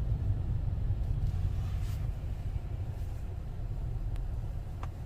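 Steady low rumble of a car heard from inside its cabin, with a faint click near the end.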